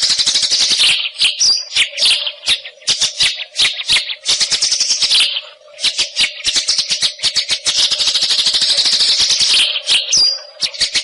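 White-rumped shama singing a fast, rattling chatter of rapid clicking notes, pausing briefly about halfway through, with a short high whistled note about a second and a half in and again near the end.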